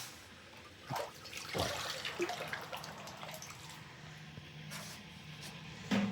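Water dripping and splashing from a freshly anodized aluminium part as it is lifted out of a rinse and lowered into the sealer tank, with two light knocks about a second and a second and a half in.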